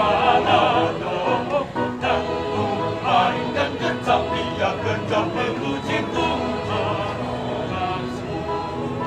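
A choir singing a Christian song in several voices at once.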